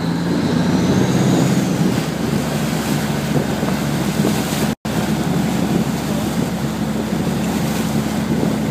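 A tour boat's engine running with a steady low hum, mixed with wind noise on the microphone and rushing water. The audio cuts out for a split second a little past halfway.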